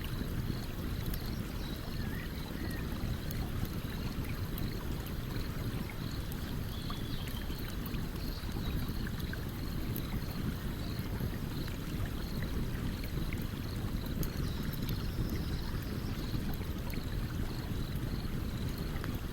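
Stream water running steadily, with a campfire crackling in faint, scattered pops. A faint high chirp repeats about twice a second.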